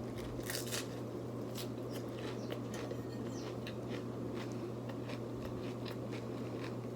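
Close-miked eating: chewing with many small crunches and mouth clicks, over the steady hum of an overhead fan.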